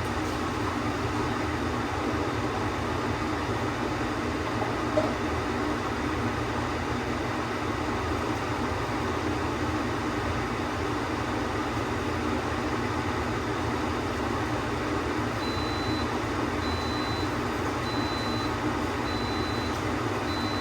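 A steady hum throughout, with a brief knock about five seconds in. From about three-quarters of the way through, an Instant Pot electric pressure cooker beeps, a short high beep about once a second, signalling the end of its cooking time.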